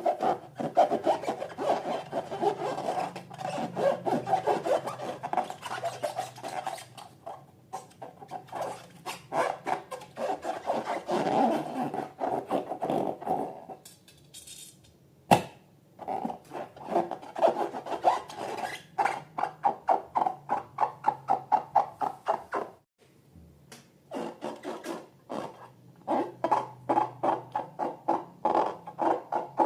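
Quick rhythmic rubbing strokes, about three to four a second, stopping briefly twice, with a single sharp click during the first pause.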